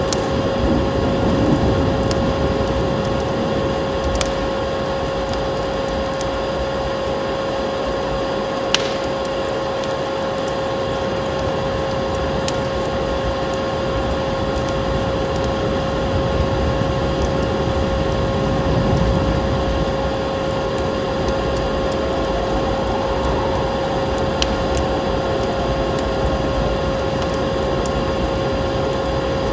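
Wood fire crackling in a fireplace: scattered sharp pops and snaps over a steady rushing noise, with a constant steady tone underneath.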